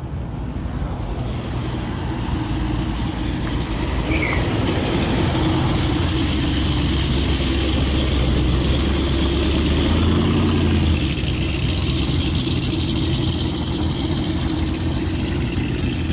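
Car engine running with a deep, low rumble. It grows louder over the first few seconds, is loudest around the middle, then holds steady.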